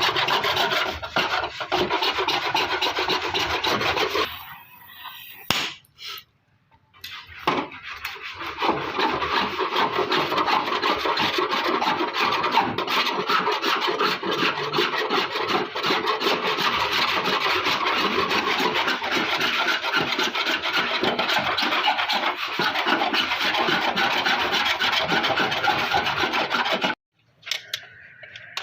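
Steady abrasive rubbing of sandpaper or a scraper on a car's sheet-metal body panel, as paint is taken down to bare metal. It pauses for a few seconds about four seconds in, resumes, and stops abruptly near the end.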